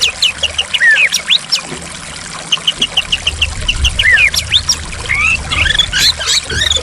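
White-rumped shama singing a varied song of rapid chip series, whistles and sweeping notes, over the steady rush of flowing water.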